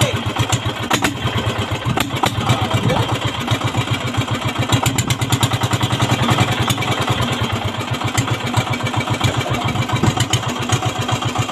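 A 16 hp Yanmar boat engine running steadily, with a rapid, even beat of firing pulses.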